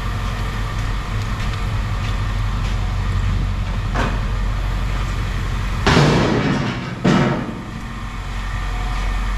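An engine idling steadily underneath. Two loud, harsh noises stand out, the first about six seconds in and lasting about a second, the second shorter and about a second later.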